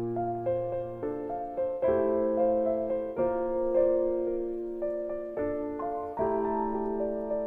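Piano music: sustained chords changing about every second and a half, with a melody of struck notes above them.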